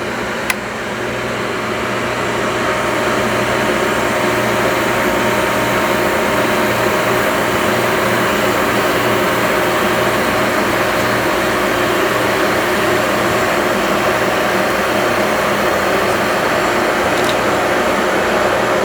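Squeegee sharpener motor running while it grinds the edge of a screen-printing squeegee blade being passed across it. A click comes just after the start, then the machine builds up over about two seconds and runs steadily.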